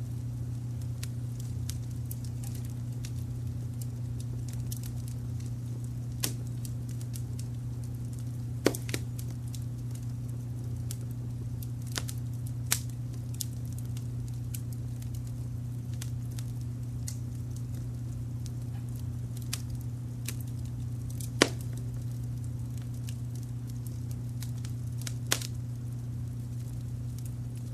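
Fireplace wood fire crackling, with scattered sharp pops, the loudest about nine and twenty-one seconds in, over a steady low brown-noise rumble.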